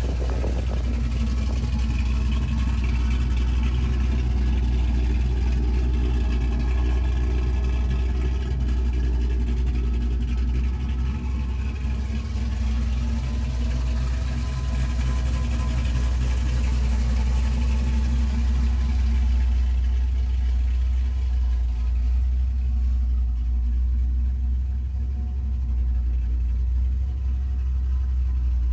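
Built 6.0-litre LS V8 with a stage 3 Brian Tooley cam idling steadily through a dual exhaust.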